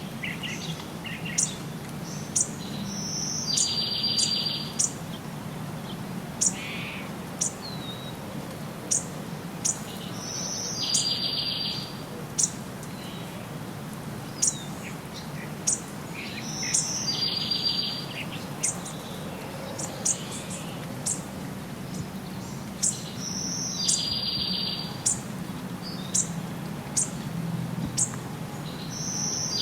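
Songbirds chirping with many short, sharp high notes. Every six or seven seconds a short high note comes, followed by a buzzy trill about a second long, over a steady low hum.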